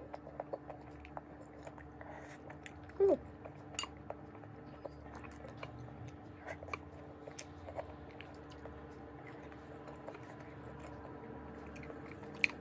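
Close-up chewing of mixed stir-fried vegetables, with scattered small clicks of wooden chopsticks against the plate. A short falling vocal sound from the eater about three seconds in is the loudest moment.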